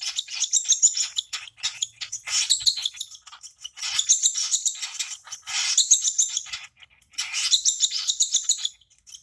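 Two-month-old baby cockatiel giving its hungry begging calls while being hand-fed: repeated bouts of rapid, high chattering, each about a second long with short pauses between.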